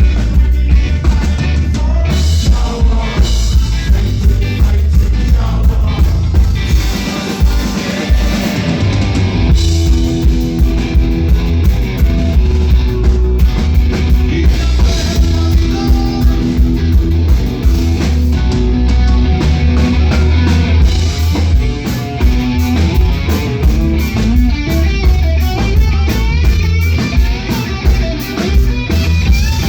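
Live band playing amplified: drum kit, heavy bass and electric guitar in a reggae-influenced punk song.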